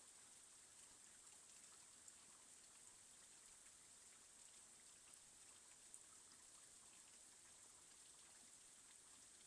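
Faint steady rain, an even hiss with scattered small ticks of individual drops.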